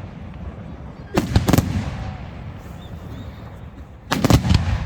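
Aerial fireworks exploding: two bangs a little over a second in, then a quick cluster of bangs near the end, each trailing off in a low rumble.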